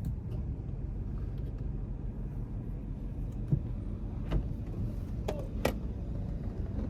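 A car driving: steady low engine and road rumble, with a few brief clicks or knocks about halfway through.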